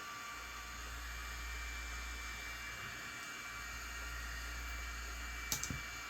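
Steady hiss of room and microphone noise with a low hum, and a quick cluster of two or three small clicks about five and a half seconds in, from handling the phone and its parts during a screen repair.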